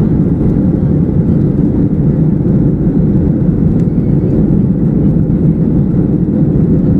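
Deep, steady cabin noise of a jet airliner in flight: engine and airflow noise heard from inside the passenger cabin.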